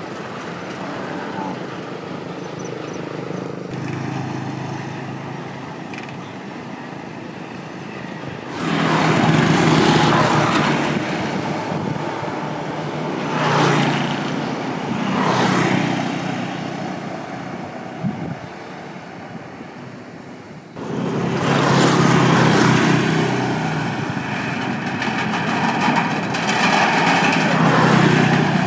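Motorcycles and scooters crossing a steel bridge: a steady traffic hum, then louder passes as bikes go by close, one after another, for much of the second half.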